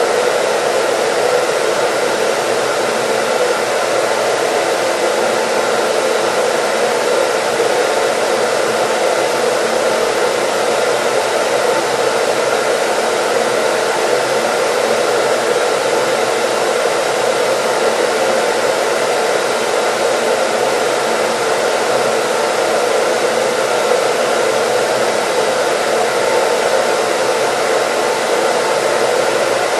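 Hair dryer blowing steadily, an even rushing noise with no change in speed or level.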